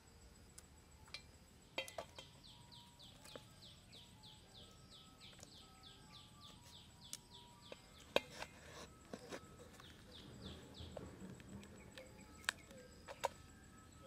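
A bird calling in a long run of short falling notes, about three a second, with a short break about eight seconds in. Now and then a sharp click of a knife and pumpkin peel against a metal bowl, the loudest near the end.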